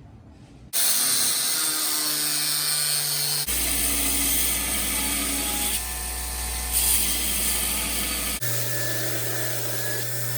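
Electric shop power tools running, most likely working the sword's steel, in a string of short spliced clips. Each clip cuts in suddenly, and each has a steady motor hum under a hissing, rubbing sound.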